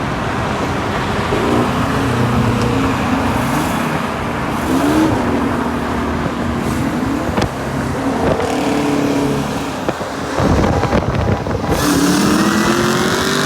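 A car engine accelerating hard, its pitch climbing and dropping back several times as it shifts up through the gears, with a longer climb near the end, over loud road and wind noise.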